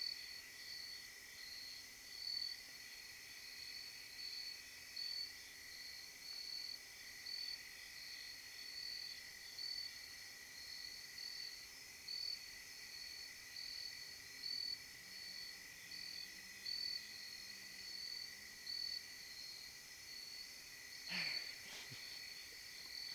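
Night insect chorus of crickets or katydids: a high chirping that pulses in a steady rhythm over a continuous lower drone. A brief, different sound cuts in a couple of seconds before the end.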